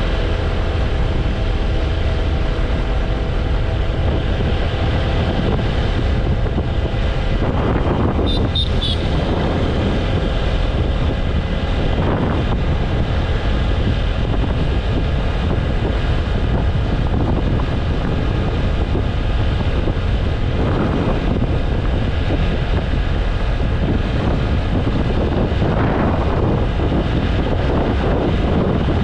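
Wind buffeting the microphone over the steady hum of a TVS Apache RTR 160 4V's single-cylinder engine cruising at highway speed. Other vehicles swell past a few times, and brief high chirps sound about eight seconds in.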